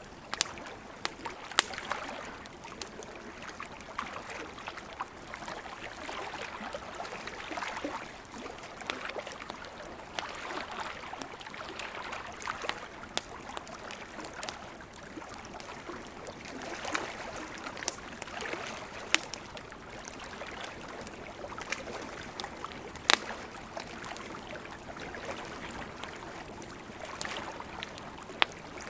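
Campfire crackling, with scattered sharp pops of burning wood, over a steady hiss that swells and eases every few seconds like waves washing on the shore.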